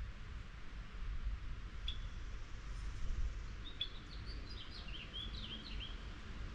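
A small songbird chirping: a single chirp about two seconds in, then a quick run of varied chirps and short warbles, over a steady low background rumble.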